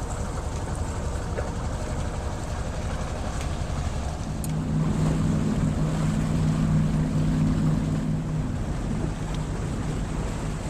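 A boat under way, with its engine rumbling steadily and wind on the microphone. About four seconds in, a steadier low hum swells up over it for some four seconds and then fades.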